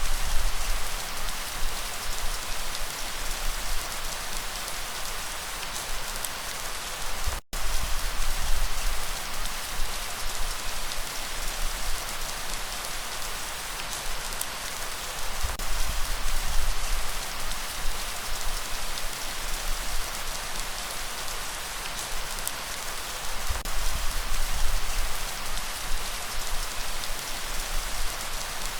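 Steady rain falling as a dense, even hiss, with a low rumble swelling up every seven or eight seconds. The sound cuts out for an instant about seven seconds in.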